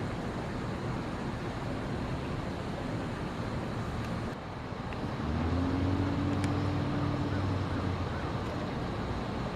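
Steady hiss of road traffic. About five seconds in, a low engine hum joins it for two or three seconds.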